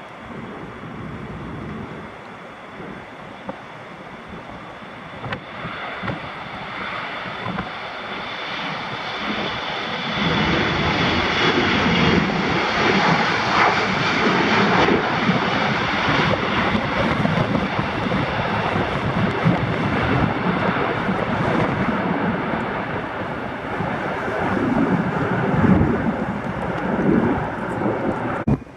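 Airliner's engines passing close by: the roar builds over the first ten seconds and stays loud, with a steady high whine through the first half, then cuts off abruptly just before the end.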